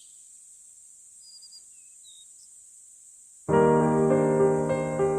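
Faint nature ambience of a steady high insect drone with a few short bird chirps, then piano background music starts suddenly about three and a half seconds in.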